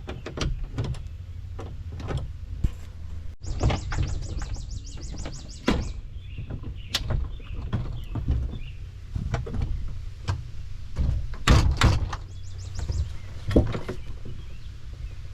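Clanks, knocks and scrapes of a dishwasher's sheet-metal door and panels being worked loose with hand tools, with a fast run of clicks about three and a half seconds in.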